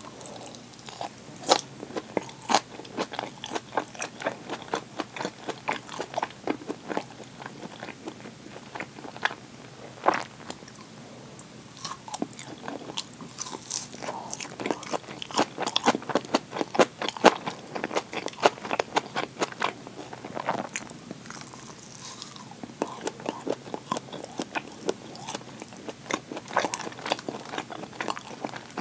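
Close-miked biting and chewing of grilled chicken yakitori: a steady run of quick, irregular mouth clicks and smacks.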